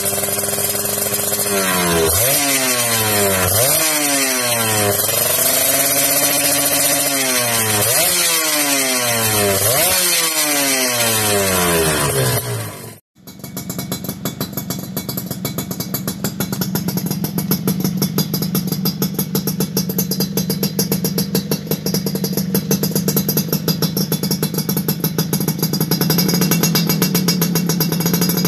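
Two-stroke motorcycle engine through a TNX racing exhaust, revved up and let fall back about six times over the first thirteen seconds. After a sudden cut near the middle, an engine runs at a steady speed with a fast, even pulsing until the end.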